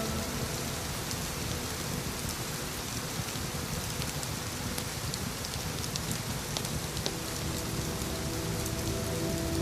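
Steady soft rain, with a constant hiss and individual drops pattering. About seven seconds in, a soft sustained ambient music pad grows louder underneath it.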